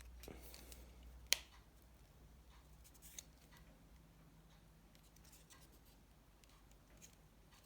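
Faint handling sounds of a mobile phone being reassembled by hand, with a few small sharp clicks; the loudest comes about a second in and another about three seconds in.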